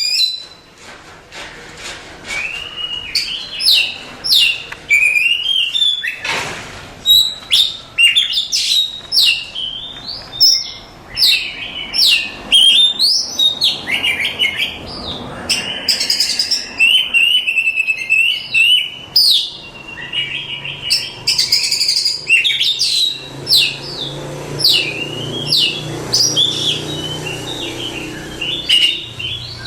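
Oriental magpie-robin singing an unbroken, varied song of loud whistles, sweeping notes and rapid trills. This is a contest-style song used as a master recording to tutor other songbirds.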